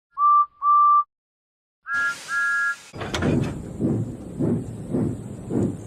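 Steam locomotive whistle: two short toots, then after a pause two higher two-note toots with a rush of steam. About three seconds in the engine starts chuffing steadily, roughly two exhaust beats a second, as it pulls away.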